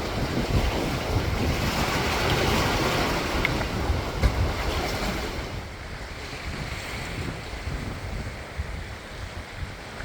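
Wind buffeting the microphone over the rush of water on a sailing catamaran under way, with the afternoon wind picking up. The noise is strongest in the first half and eases after about five seconds.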